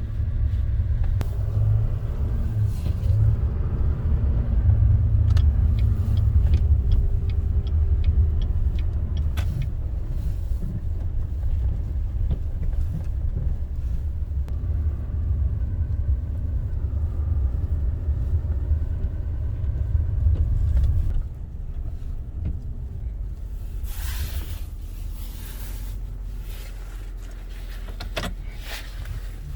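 Inside the cab of a GMC Sierra HD AT4 diesel pickup on the move: a steady low rumble of engine and tyres, with a run of light ticks a few seconds in. About two-thirds of the way through the rumble drops off suddenly as the truck slows, followed by a few short bursts of hiss.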